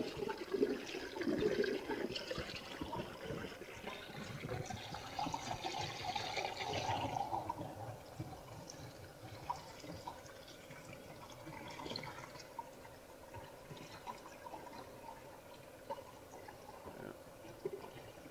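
Water trickling and splashing over rocks at a small waterfall. For roughly the first seven seconds an RC rock crawler's brushless motor and tires work against the rock, then mostly the water is left, with scattered light clicks.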